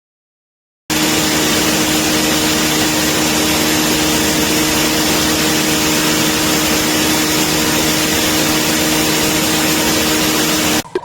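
Ninja NJ601AMZ 1000-watt blender running at one steady speed for about ten seconds, starting abruptly about a second in and cutting off near the end.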